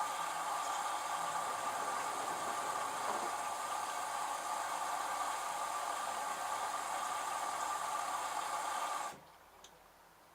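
LG F1222TD direct-drive washing machine running with a steady whirring hiss, which cuts off abruptly about nine seconds in.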